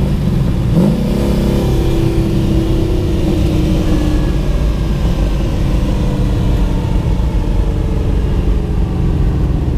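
Twin-turbo 5.3-litre LS V8 of a 1974 Chevrolet Nova running under way, heard from inside the car. Its note rises briefly about a second in, then eases slowly down, over a steady low rumble.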